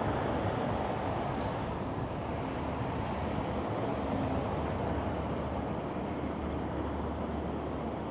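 Steady city street noise of passing traffic mixed with strong wind.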